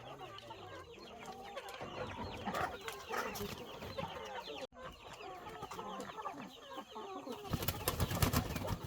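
Chickens clucking and chirping, many short calls overlapping, with a loud burst of clattering noise near the end.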